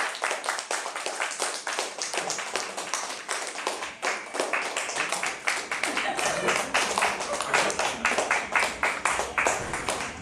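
Audience clapping, with a few voices among it; in the second half the claps fall into a fairly even beat of about three to four a second.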